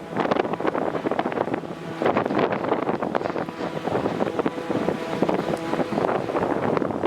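Construction noise: dense, irregular clattering and knocking over running machinery, with wind buffeting the microphone.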